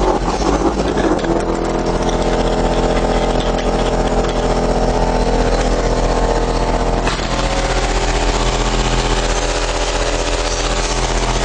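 Two Earthquake Sound SubZero 15-inch subwoofers in a ported box playing a bass-heavy electronic track at high volume. A steady, very deep bass tone carries a buzzy edge, and the pattern changes about seven seconds in.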